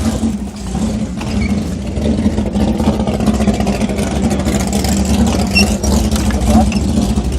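Jet boat engine running steadily, getting a little louder over the first couple of seconds.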